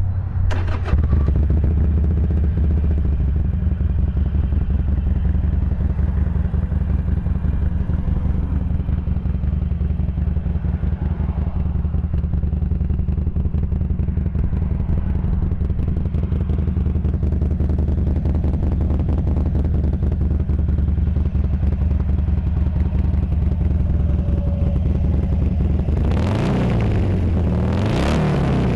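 Harley-Davidson Sportster 883 Iron's 883cc fuel-injected V-twin idling steadily through factory pipes with the baffles removed. Near the end the engine note rises and falls a couple of times as it is revved.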